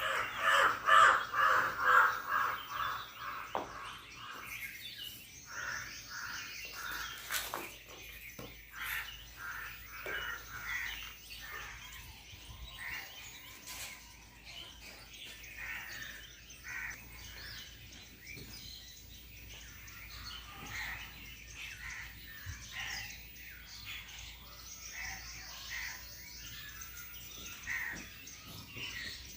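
Birds calling: harsh caws, loudest in the first few seconds, then scattered short chirps, with a couple of brief clicks.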